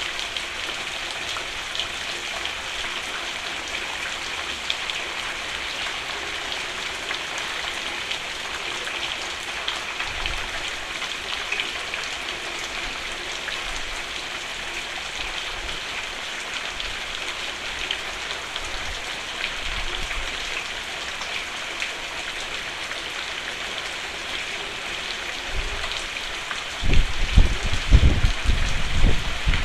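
Steady rain drumming on a roof, an even hiss of many drops. Near the end, a louder low rumble comes in a few pulses over about two seconds.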